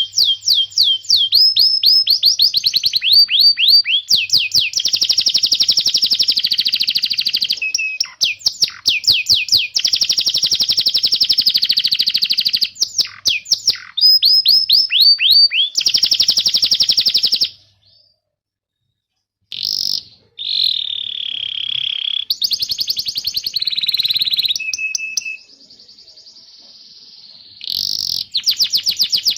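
Domestic canary singing long, fast trills of rapidly repeated high chirps, with a cuit-cuit chirping song. The song breaks off briefly about eighteen seconds in, then comes back with slower, more varied phrases and a quieter held high note before another fast trill near the end.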